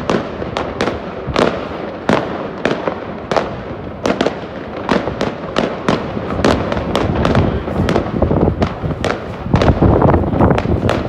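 Aerial fireworks display: a dense, irregular barrage of bangs and crackling bursts, several a second, building to a heavier, louder volley near the end.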